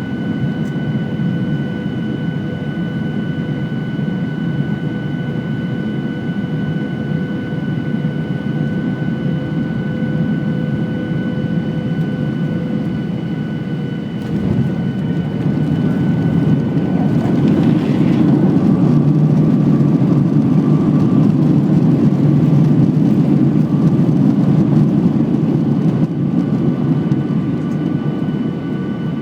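Boeing 737-800's CFM56 jet engines running, a steady turbine whine over a low rumble. About halfway through the sound swells louder and fuller, with a new whine tone, and it eases off again near the end.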